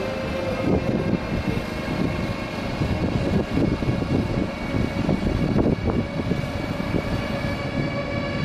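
A Deutsche Bahn ICE 3 Velaro D (Class 407) high-speed electric train pulls in along the platform and passes close by. The wheels rumble under a steady whine of several held high tones.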